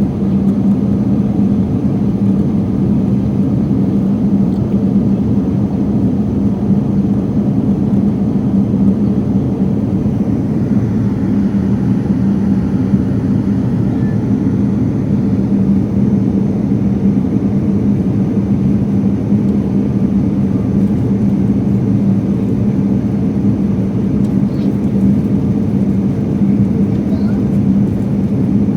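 Airliner cabin noise in flight: a steady, dense rumble of engines and rushing air, with a constant hum near 200 Hz.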